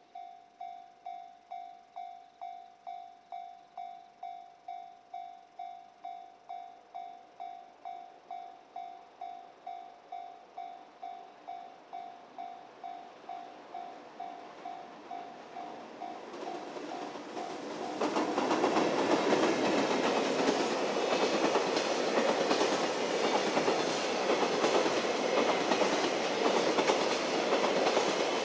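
A level crossing warning bell ringing about twice a second, then a freight train arriving about two-thirds of the way in and running past loudly with a steady clickety-clack of wheels over rail joints.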